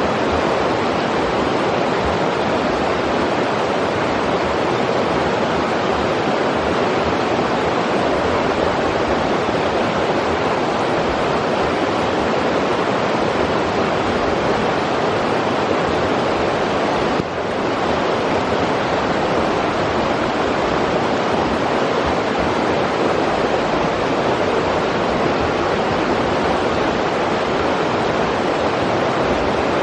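River water rushing steadily over rocks, a constant even rush with a brief dip in level about 17 seconds in.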